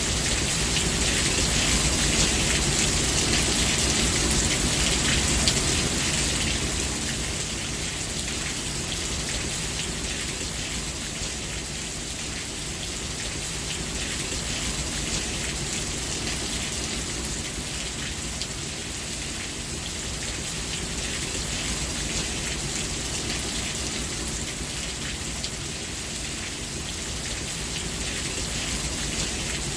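Steady rain falling, a dense hiss of many drops on surfaces, a little louder for the first six seconds or so.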